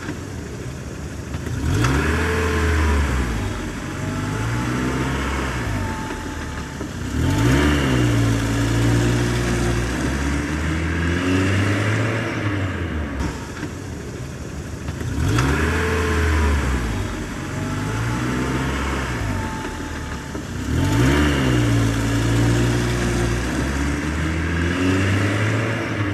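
A motor engine revving up and down again and again, with a rhythmic chug under it. The same stretch of revving repeats about halfway through, as a looped recording would.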